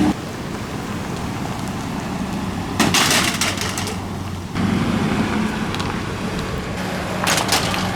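Truck engine running steadily, growing a little louder about halfway through, with two short bursts of crackling and crunching under the truck, about three seconds in and near the end.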